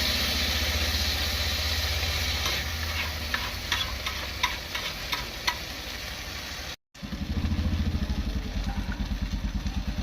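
Chicken frying on a tava: a hissing sizzle with scattered sharp clicks, over a low pulsing hum. It cuts out briefly a little before the middle and comes back as a louder low pulsing rumble.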